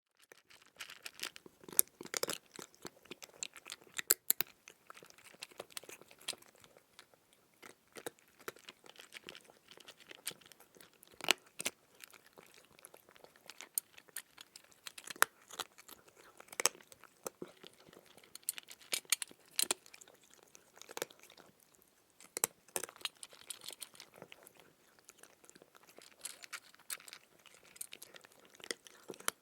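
A cat eating, chewing its food close up: a continuous run of irregular, sharp chewing clicks several times a second, with louder bites every second or two.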